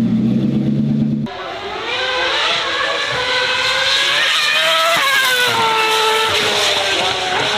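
Low engine rumble that cuts off abruptly about a second in, followed by a high-revving racing engine accelerating hard. Its pitch climbs, dips sharply about five seconds in, then falls away slowly.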